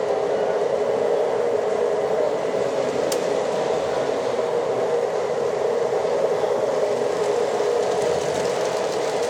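H0-scale model train running on the layout, a steady, even noise of motor and wheels on the track that does not let up.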